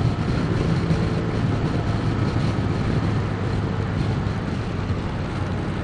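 Motorcycle engine running steadily at cruising speed, with a constant low hum and rushing wind noise on the microphone.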